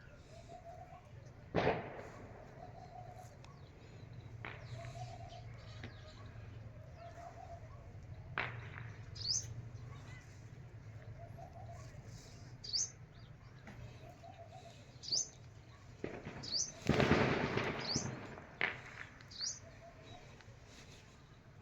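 Small birds feeding, with short high rising chirps scattered through the second half and a soft low call repeating every second or so. A few sharp taps come early, and a loud flurry of flapping wings comes about seventeen seconds in.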